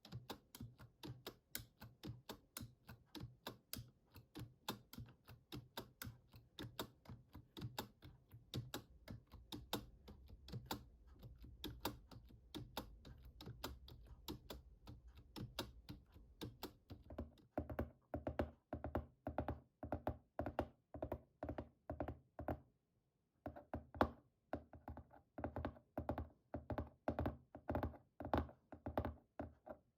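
Fast, regular finger taps and clicks on a computer keyboard, about five a second. About two-thirds of the way through, after a brief pause, the taps turn duller and fuller.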